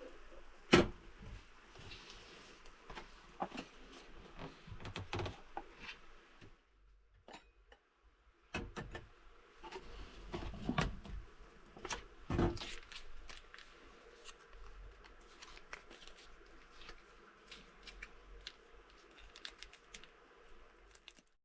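Objects being handled: an irregular run of clicks, knocks and rustles, with a sharp knock about a second in and a short lull midway.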